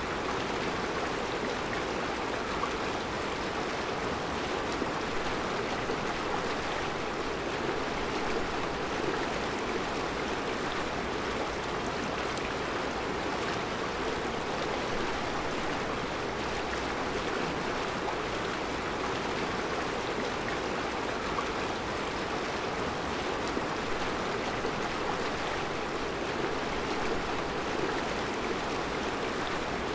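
Mountain river flowing over round rocks in a rocky bed: a steady, even rush of water with no breaks.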